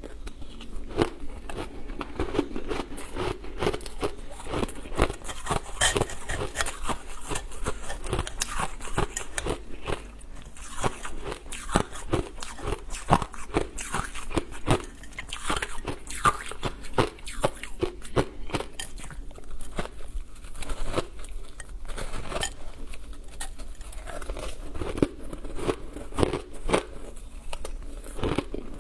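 Ice dusted with matcha powder being bitten and chewed: a continuous run of sharp, irregular crunches, several a second.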